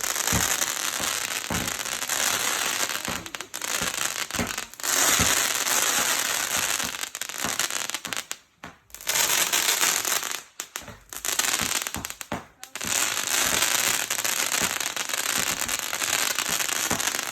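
Fireworks crackling: a dense hiss of many small pops, with a few deeper thuds, cutting out briefly twice around the middle.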